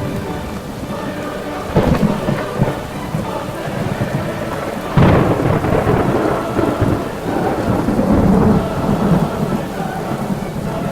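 Thunderstorm: steady heavy rain with rolls of thunder, the loudest clap about five seconds in and a smaller one near two seconds.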